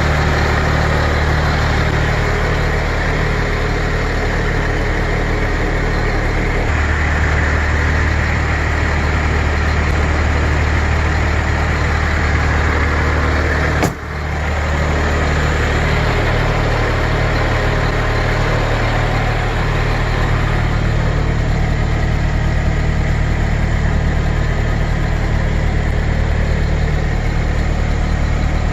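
1999 C7500 medium-duty truck's engine idling steadily, with a sharp click and a brief dip in level about halfway through.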